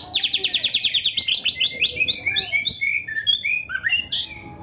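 Oriental magpie-robin (kacer) singing loudly: a fast run of repeated high notes, about ten a second, then a string of varied, partly falling notes.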